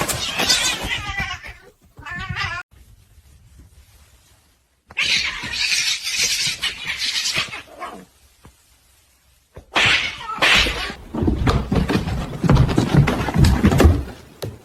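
Cats yowling and caterwauling in several short, loud bursts separated by brief quiet gaps, with wavering, pitched calls among them.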